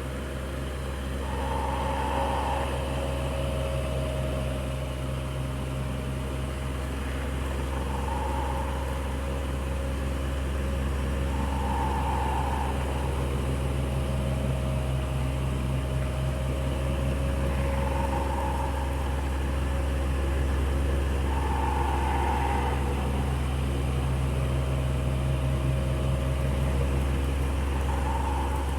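Electric fan running steadily: a constant motor hum and blade whirr, with a higher whirr that swells and fades every few seconds.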